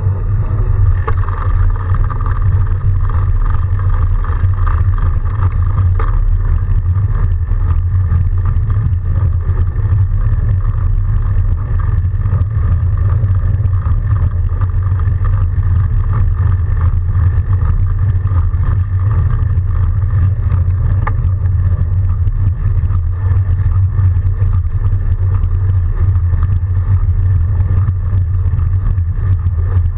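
Steady riding noise from a Surly Moonlander fat bike on a snowy commute: a continuous low rumble of wind and tyre noise on the microphone.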